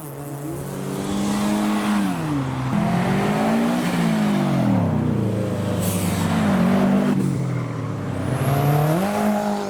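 Car engine running through the gears: its pitch drops and climbs again several times as the car slows and accelerates. A faint high whistle rises near the end.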